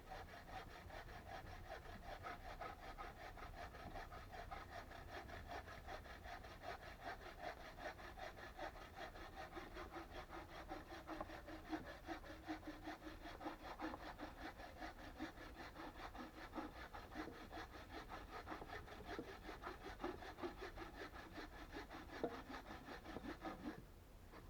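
Hand saw cutting through wood with steady, rapid back-and-forth strokes that stop about a second before the end.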